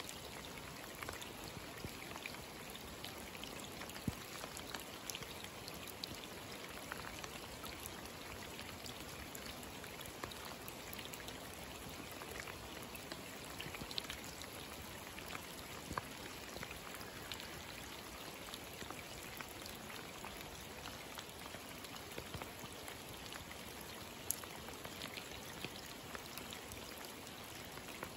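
Rain falling steadily into a wide puddle of standing water on a road: an even hiss with many separate drops splashing on the water's surface.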